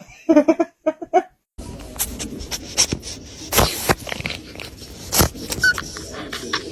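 A dog's few short vocal sounds, then a steady noisy background broken by several sharp knocks, the loudest about three and a half and five seconds in.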